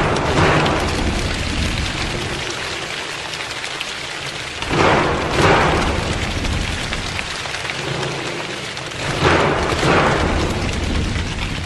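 A group of people imitating a rainstorm: a steady rain-like patter that swells loud three times, about every four to five seconds, like gusts of heavy rain.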